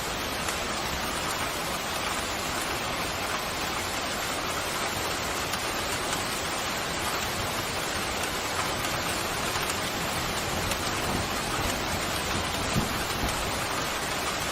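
Steady pouring rain, an even hiss with no break, with a few low rumbles of thunder coming in near the end.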